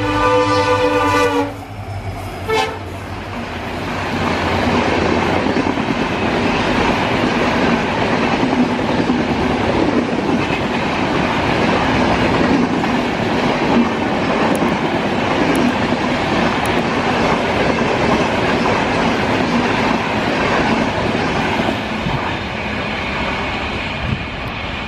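Twin diesel locomotives sound a long multi-tone horn blast that stops about a second and a half in, with one short toot a second later. The coaches then rush past at speed with a steady roar and clatter of wheels on rail, easing slightly near the end as the train recedes.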